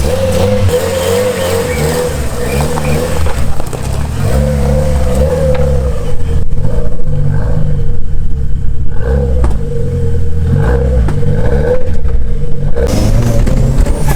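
Toyota Starlet Glanza V's 1.3-litre turbocharged four-cylinder engine pulling the car along, its pitch repeatedly rising and falling as it accelerates and eases off through the gears. A steady higher whine runs alongside much of it.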